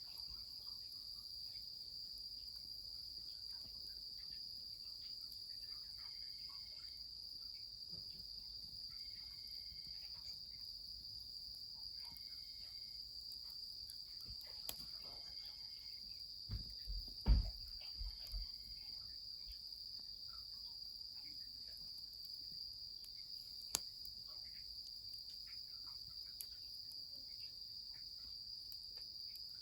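Steady, high-pitched chorus of night insects, with scattered faint crackles from the wood fire. About halfway through comes a short cluster of low thumps.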